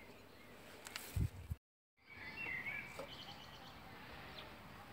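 Faint outdoor garden ambience with a short low thump about a second in. After a brief gap of silence, a bird chirps a few times and faint high chirps follow.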